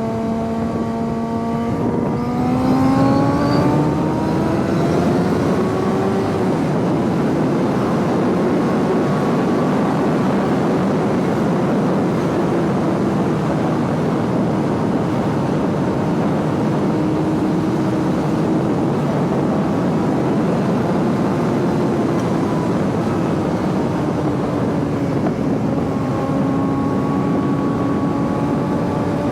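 Suzuki GSX-R sport bike engine under way, its note climbing as it accelerates about two seconds in, then cruising steadily under heavy wind rush, easing down a little near the end.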